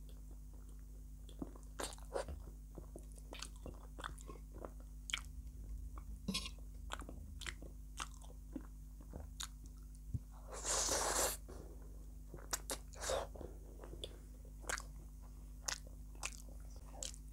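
Close-miked chewing of instant pasta noodles, with many short wet smacks and clicks of the mouth. A louder noisy sound lasting about a second comes about eleven seconds in.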